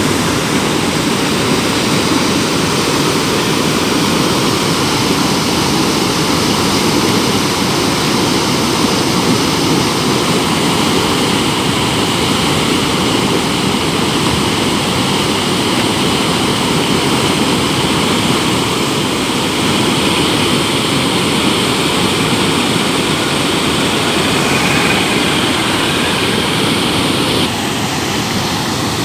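Swollen, flooded river after heavy rain, its water rushing loudly and steadily, with a slight drop in level near the end.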